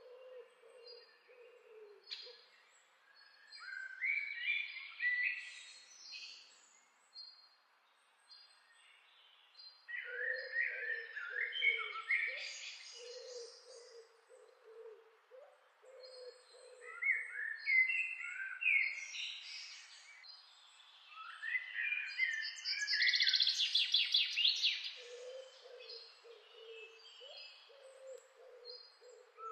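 Birds singing in bouts of quick, gliding chirps and trills, the loudest bout in the last third, over a low, repeated hooting call from another bird.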